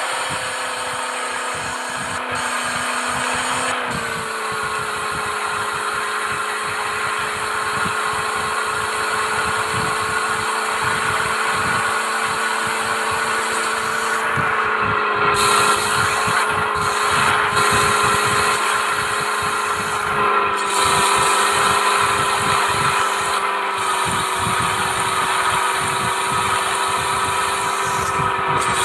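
Mahindra Thar's engine running steadily with a held whine, its pitch dropping slightly about four seconds in and again about twenty seconds in.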